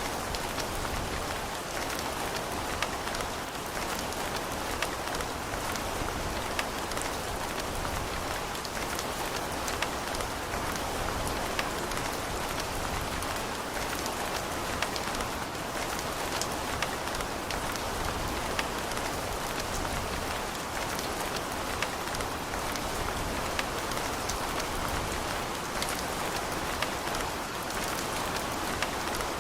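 Steady rain falling on hard surfaces, an even hiss dotted with the sharp ticks of individual drops.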